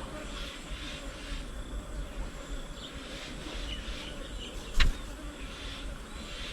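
Outdoor bird-table ambience with insects buzzing and repeated short high chirps, broken by one sharp click about three-quarters of the way through.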